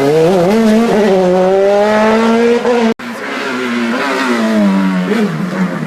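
Racing car engine at high revs, its note climbing steadily for about three seconds as it accelerates. The sound cuts out for an instant, then an engine note rises and falls again.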